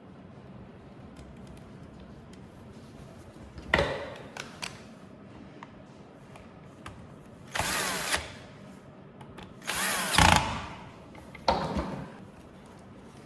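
Electric screwdriver or drill running in short bursts of under a second each, three times, driving screws during reassembly. A knock comes a few seconds before the first burst.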